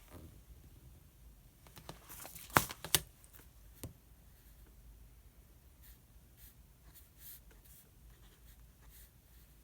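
Pen scratching on paper in short strokes, with a brief rustle of paper and two sharp taps about two and a half to three seconds in, and a lighter tap just after.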